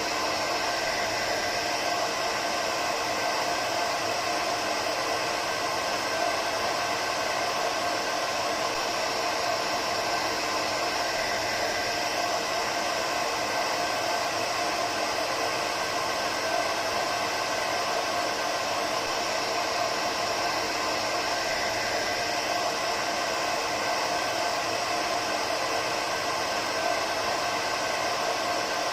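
Hair dryer running steadily: an even, unbroken whooshing hiss with a faint steady hum in it.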